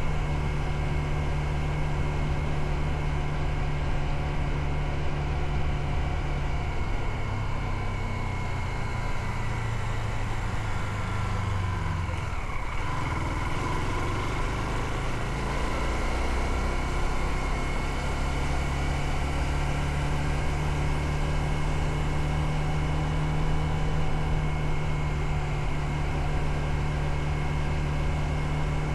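Motorcycle engine running steadily while riding. About halfway through, the engine note dips and then climbs back up.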